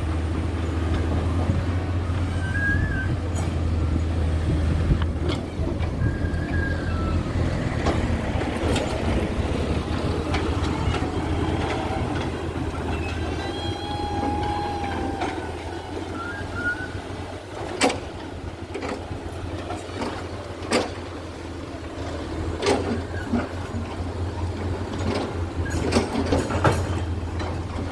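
Heavy diesel machinery running with a steady low drone. A few short squeaks and scattered sharp knocks and clanks come through, more of them in the second half.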